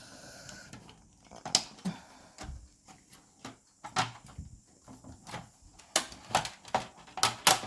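Irregular sharp clicks and knocks of projector parts being handled and pried apart during disassembly, growing more frequent near the end.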